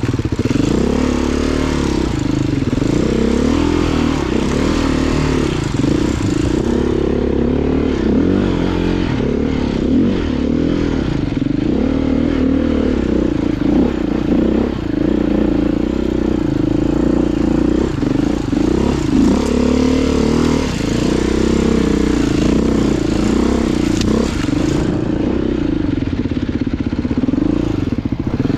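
Dirt bike engine running on a trail ride, its pitch rising and falling again and again as the throttle is worked.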